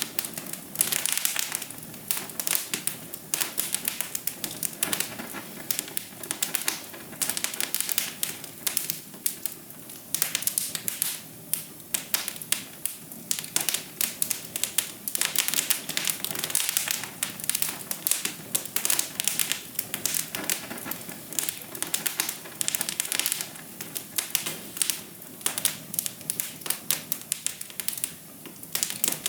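Wood fire crackling in a fireplace: a dense, irregular run of sharp pops and snaps over a soft, steady rush.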